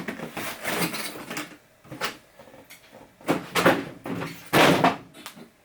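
Box packaging scraping and rustling as a boxed RC car is worked loose and pulled out. There are several uneven bursts, the loudest two about three and four and a half seconds in.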